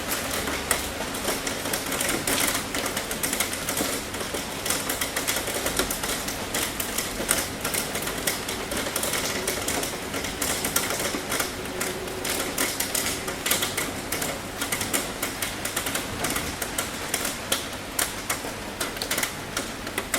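Rain falling on a tin roof: a dense, irregular run of sharp ticks as drops strike the metal, over a steady hiss of rain.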